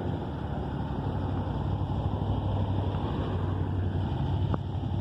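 KTM motorcycle engine running steadily with a low, even hum, and a brief click about four and a half seconds in.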